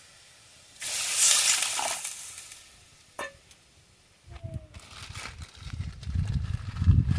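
Hot oil sizzling loudly in a cooking pan, starting suddenly and fading over about two seconds. Then a single knock, and a low rumbling that builds toward the end.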